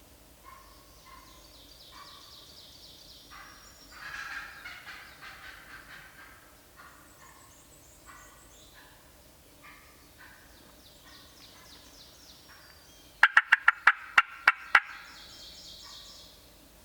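Wild turkeys calling close by: a run of short clucks and yelps with a louder stretch of calls about four seconds in, then near the end a burst of about eight loud, sharp cuts from an excited hen. Small birds chirp high above.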